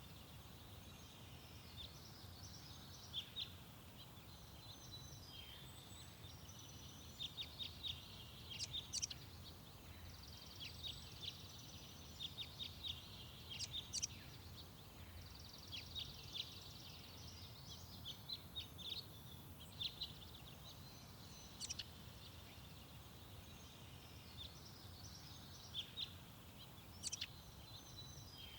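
Garden songbirds chirping and calling: many short, sharp high notes, busiest in the middle stretch, over a faint steady low background rumble.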